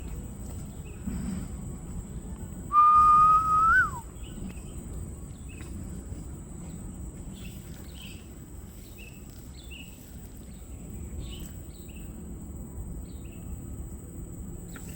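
One loud whistled note about a second long, held steady with a slight rise, then flicking up and dropping away. Short high chirps follow, repeated many times, over a steady high-pitched hum like insects.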